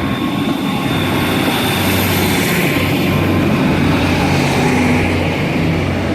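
Diesel train engine droning, swelling to its loudest about four to five seconds in, then easing off.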